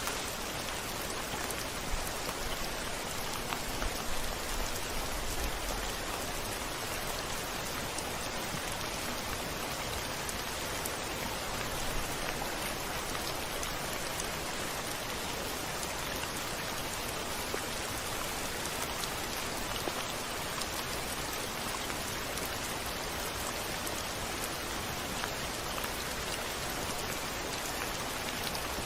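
Steady heavy rain falling and pattering on a surface, with scattered individual drop ticks and a faint low rumble about four to six seconds in.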